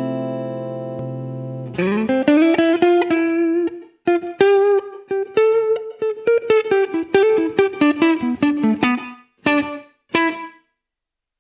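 Electric guitar played through a Poly Effects Poly Verbs impulse-response reverb pedal. A held chord rings out, then about two seconds in a slide leads into a quick run of picked single notes, and two short notes close the phrase about a second before the end.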